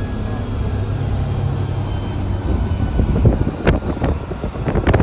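Mercedes-Benz bus engine running with a steady low drone, heard from the driver's cabin. From about three seconds in, sharp knocks and rattles join it, one clear knock a little after the middle.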